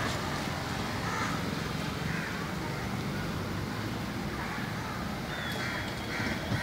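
A bird's short, harsh calls, repeated about six times and coming closer together near the end, over a steady low street rumble.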